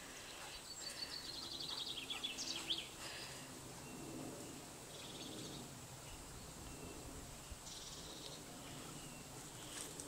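A songbird sings a fast trill that falls in pitch and ends in a short flourish, lasting about two seconds near the start. Faint scattered bird chirps follow over quiet woodland background noise.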